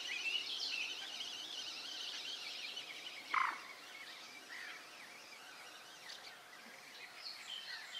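Small birds singing in the background, busiest in the first couple of seconds and thinning out later, with one short, louder call or knock about three and a half seconds in.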